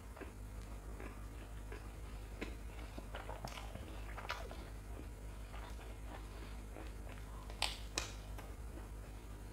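Close-miked chewing and mouth sounds with small crackles, then two sharp crunches about three-quarters of the way through as a crisp fried dried red chili is bitten.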